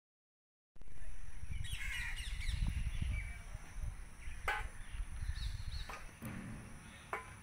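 Birds calling over a low rumble, starting about a second in, with a few sharp clicks later on.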